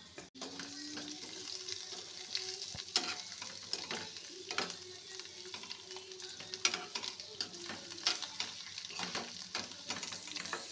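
Boiled potato pieces frying in oil with spice powder in a pan, sizzling steadily, while a spatula stirs them with irregular scraping clicks against the pan.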